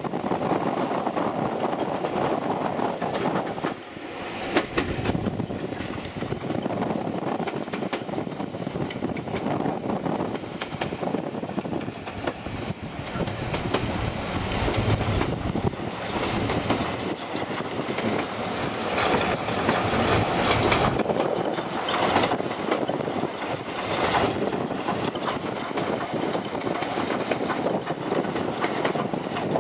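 Steam-hauled heritage train running along the line, its wheels clattering rhythmically over the rail joints.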